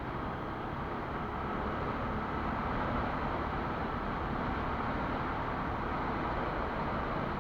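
Quad bike engine running steadily under way, its noise mixed with the rush of riding.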